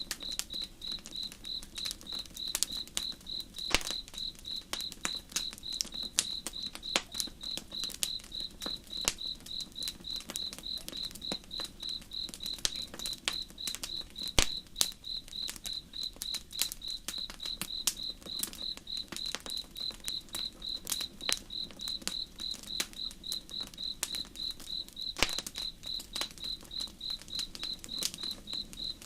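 Campfire crackling with scattered sharp pops, over a cricket chirping steadily at about three chirps a second.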